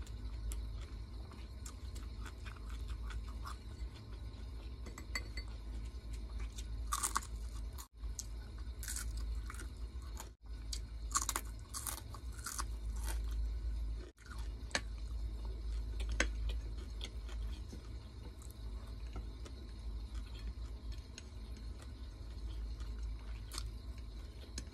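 A person chewing and biting food, with sharp crisp crunches coming mostly in the middle, over a low steady hum.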